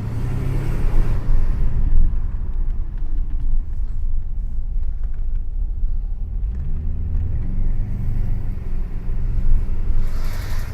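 Mercedes-Benz 500 SE's 5.0-litre V8 running through an exhaust with the muffler deleted while the car is driven. The engine note climbs near the start and again about two thirds of the way through as the car accelerates.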